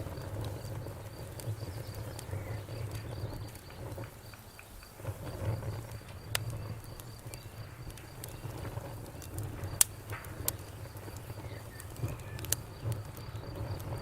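Campfire crackling: a low, fluttering rumble of burning wood with sharp pops every second or two, the loudest just before ten seconds in.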